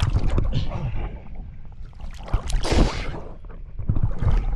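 Low rumble of wind buffeting the microphone, with a louder rushing sound about two and a half seconds in.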